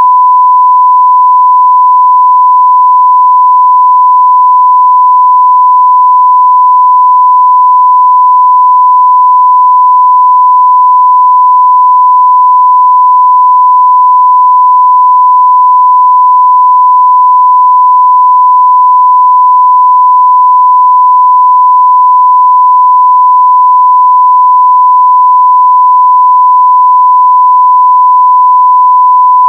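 Continuous 1 kHz sine test tone at near full-scale level, a single steady pitch with no breaks.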